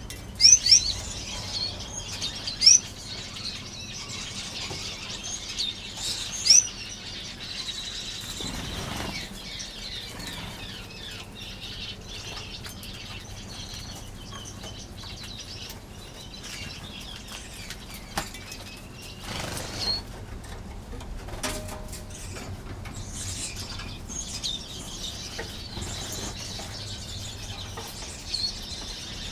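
A flock of small aviary finches chirping and fluttering their wings. Several sharp, loud calls come in the first few seconds, followed by quieter, steady chatter.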